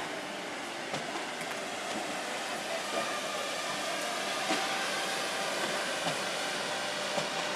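Trenitalia Jazz electric multiple unit rolling slowly past, a steady hiss of wheels on rail with a faint electric whine. A few sharp clicks come from the wheels over the track.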